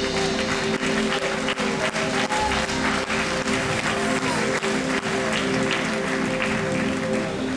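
Congregation applauding over sustained held chords from the church band.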